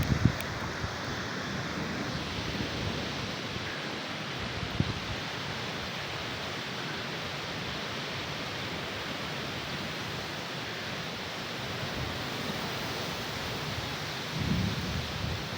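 Heavy rain falling steadily in a thunderstorm, with brief low rumbles just after the start and again near the end.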